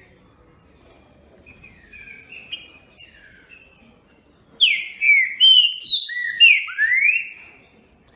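A songbird singing: a few soft, high chirps, then about halfway in a loud phrase of about seven clear whistled notes, each slurring down or up.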